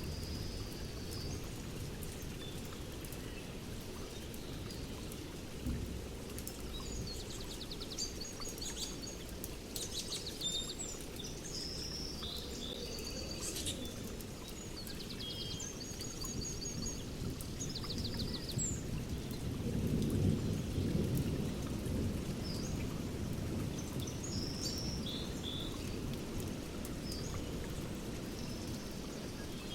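Thunderstorm ambience recording: steady rain with low rolling thunder that swells about two-thirds of the way through, while birds sing short high chirps and trills over it.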